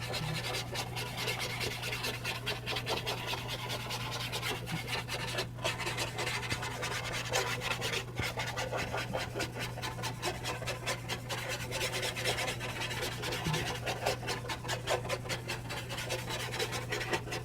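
Small paint brush scrubbing charcoal dust into charcoal paper in many short, scratchy rubbing strokes, blending a dark background. A steady low hum runs underneath.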